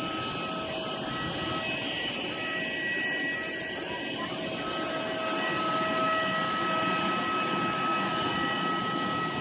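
Jet airliner noise: a steady rush with several thin, steady whining tones held throughout.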